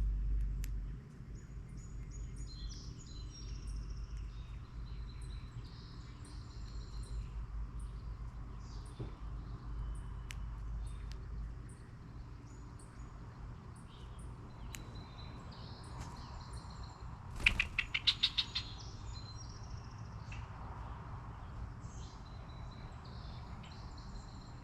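Several songbirds chirping and calling in short high notes, with one loud, rapid run of harsh notes from a bird about 18 seconds in. A low rumble sits underneath for the first half, then fades out.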